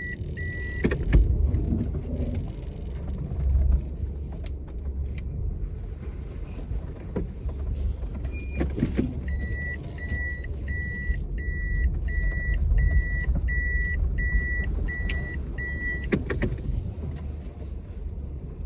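Low steady rumble of a running car. A run of short, high electronic beeps, evenly spaced about one and a half a second, sounds through the middle, with a few knocks and clicks.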